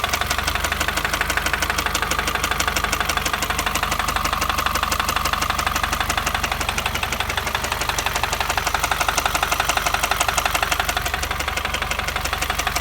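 2015 Subaru WRX's 2.0-litre turbocharged flat-four running steadily with a fast, even knocking from inside the engine, the sign of an internal engine fault.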